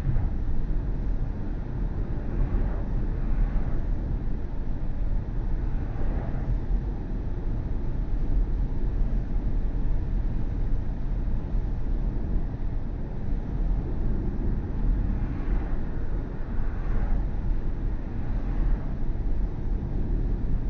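Steady low road and tyre rumble from a BMW i4 M50 being driven. It is an electric car, so there is no engine note. A few brief swells rise over the rumble.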